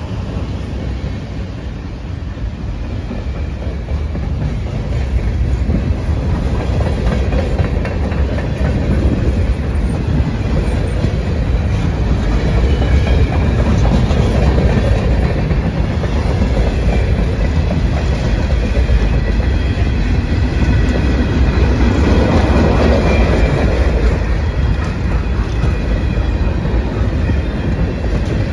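Freight cars of a long CSX manifest train rolling steadily past close by: a continuous low rumble of steel wheels on rail with clickety-clack from the wheels crossing rail joints.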